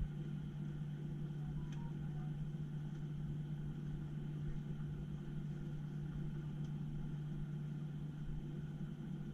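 Steady low mechanical hum and rumble, like the inside of a running vehicle, with one strong unchanging tone under the rumble.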